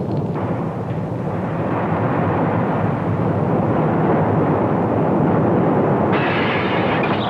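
Earthquake rumble sound effect on an old television drama's soundtrack: a loud, steady roar that grows slowly louder, with a higher hissing layer joining about six seconds in.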